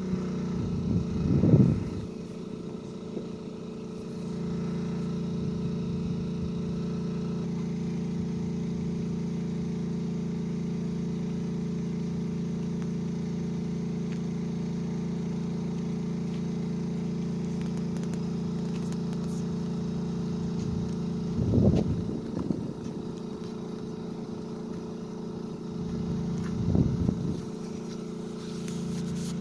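A motor running steadily with a constant hum made of several steady low tones, with a few brief low rumbles about a second and a half in, around two-thirds of the way through, and near the end.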